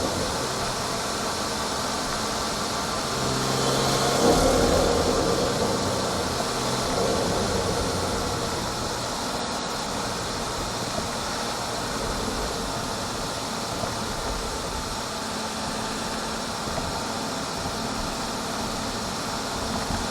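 BMW 440i's B58 turbocharged inline-six heard through its front-mount intake, with a steady intake rush and engine hum while driving and a short swell about four seconds in.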